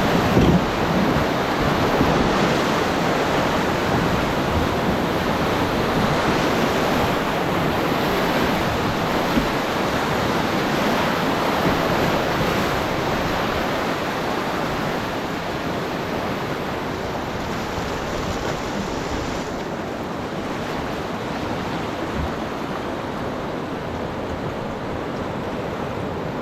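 Rushing whitewater of the Rogue River, a steady loud rush that eases a little in the second half.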